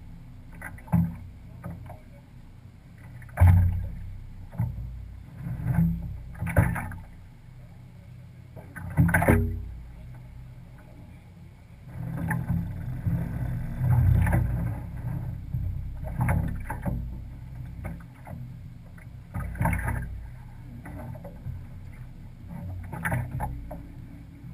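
Water rushing and splashing along the hull of a sailing yacht under way, with a steady low rumble and sudden loud surges every few seconds.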